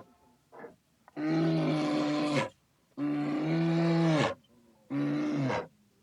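A large animal calling over and over: three loud, even-pitched calls of about a second each, coming roughly every two seconds.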